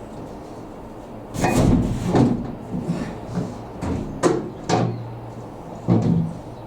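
Irregular knocks, bumps and clatters, about five of them, of a metal tumble dryer cabinet being handled and shifted.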